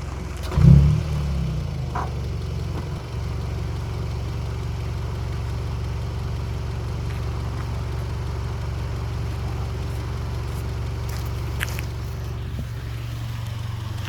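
VW Scirocco 2.0 TSI four-cylinder turbo engine, warm, through a Remus cat-back exhaust with Supersprint middle pipe: one quick throttle blip under a second in, then it settles to a steady idle.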